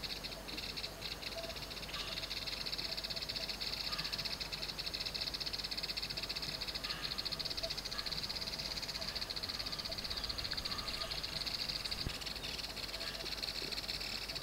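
Steady, high insect chorus that pulses very fast and never lets up, with a few faint short calls beneath it.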